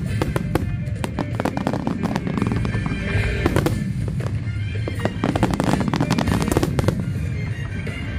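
Fireworks display: rapid volleys of bangs and crackling bursts, with music playing underneath.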